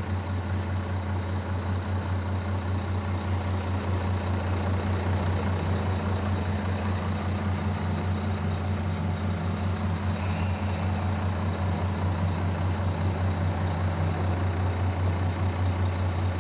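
Scania G420 truck's diesel engine idling steadily with a deep, even hum.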